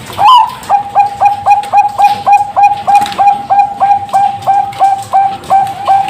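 Zebra dove (Bangkok-type perkutut) singing: a higher opening note, then a rapid run of short clipped coos on one steady pitch at about four a second.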